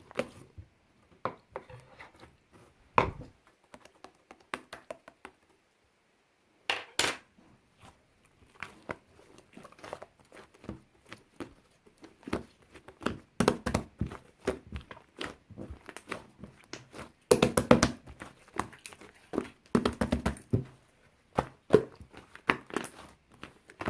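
Packaging being handled at close range: irregular bursts of crinkling and crackling with small knocks, busiest in the second half.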